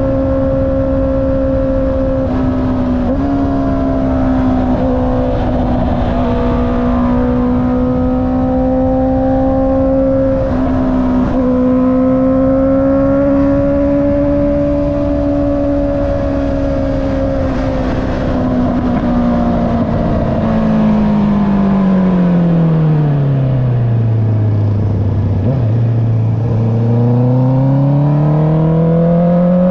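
Honda CB650R's inline-four engine through an Akrapovic exhaust while riding. The engine holds a steady cruise with small shifts in pitch a few seconds in and again about eleven seconds in. About twenty seconds in the revs fall away, then they climb again near the end.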